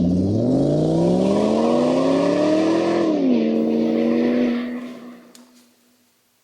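A motor running with a steady whine that rises in pitch for about three seconds, drops suddenly, holds briefly, then winds down and stops about five seconds in.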